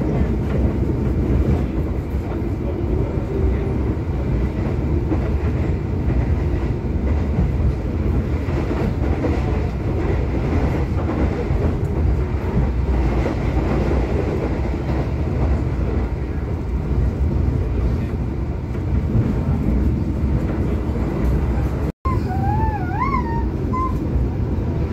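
Steady rumble and rail noise of a passenger express train running at speed, heard from inside the coach.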